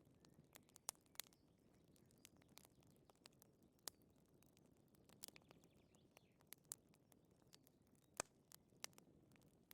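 Wood fire crackling softly, with sharp, irregular pops and snaps over a low, steady murmur of burning.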